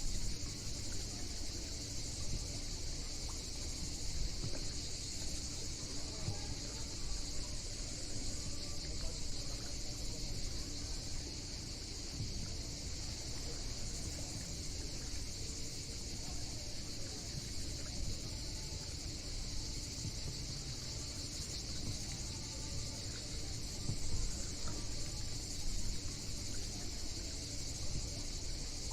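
A steady, high-pitched insect chorus running without a break, with an uneven low rumble underneath.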